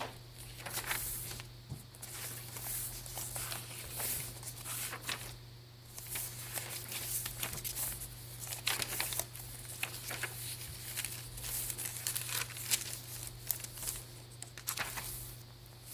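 Paper rustling and crinkling as the pages and loose papers of a thick handmade junk journal are turned and handled, in irregular scratchy bursts throughout.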